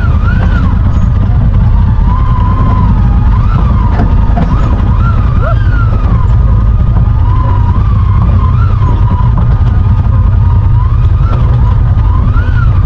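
Side-by-side UTV driving along a trail: a steady low engine rumble, with a whine that rises and falls in pitch again and again.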